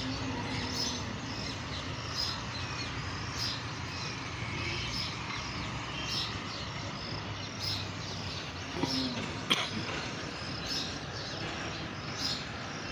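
Birds chirping over and over in short high calls, several a second, with one sharp click a little past the middle.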